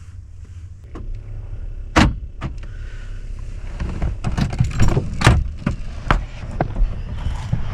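Truck doors and latches being handled: one sharp click about two seconds in, then a run of clicks, knocks and rattles over a steady low rumble.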